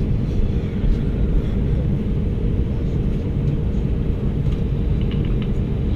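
Steady cabin noise inside an Airbus A319 on the ground before takeoff: an even low rumble with a faint steady hum, from the aircraft's air supply and engines.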